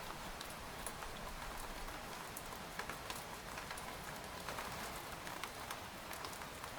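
Rain falling steadily on a tent, a constant hiss with many separate drops tapping on the fabric at irregular intervals.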